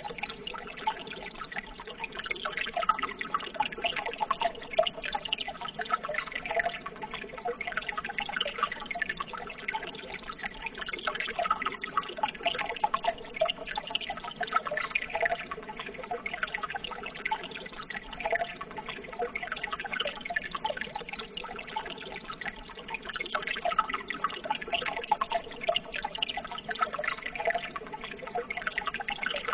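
Running water trickling and babbling steadily: a continuous patter of many small drips and splashes.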